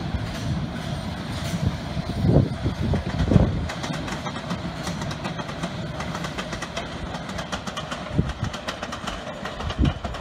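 London Underground S Stock train running past on the tracks: a steady low rumble with wheels clattering over rail joints. There are heavier thumps about two and three seconds in and again near the end.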